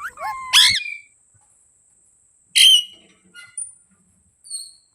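Indian ringneck parrot calling: a few quick gliding whistles in the first second, then one loud, harsh squawk about two and a half seconds in, followed by a few soft chirps near the end.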